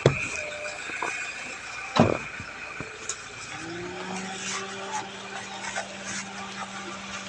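Vehicle sounds around a car: two sharp knocks, at the start and about two seconds in, then a steady hum that rises briefly and settles at a level pitch from about three and a half seconds in.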